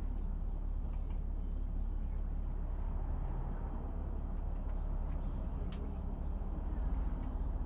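Interior of a LiAZ 6213 articulated city bus: the steady low rumble of its engine and running gear. A single sharp click comes about six seconds in.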